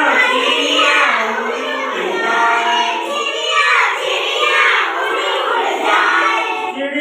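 Children singing together in chorus, a continuous sung line without pauses.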